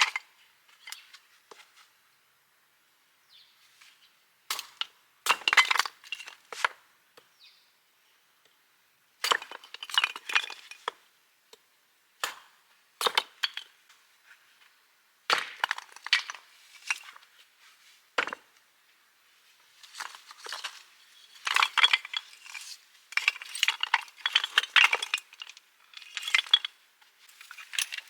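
Cookware and utensils clinking and knocking in short bursts with brief pauses between them, as food is handled and prepared.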